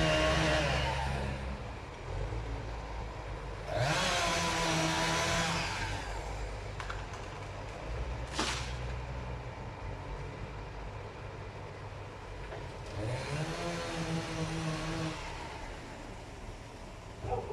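An engine revs up twice, each time for about two seconds, over a steady low engine rumble. There is a single sharp knock about eight seconds in.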